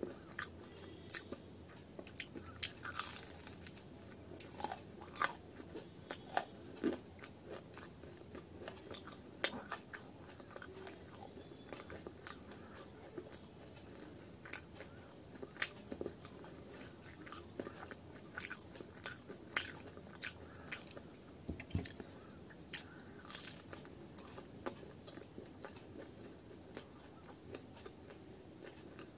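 A person chewing a mouthful of homemade radish-stuffed kachori close to the microphone: irregular small crunches and wet mouth clicks, several a second.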